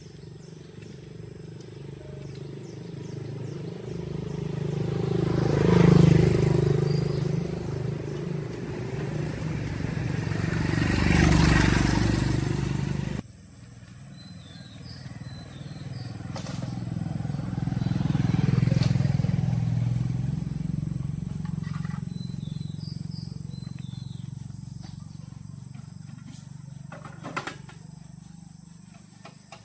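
A motor vehicle engine that grows louder and fades as it passes by, then, after an abrupt cut, rises and fades again in a second pass. Faint bird chirps sound in the later part.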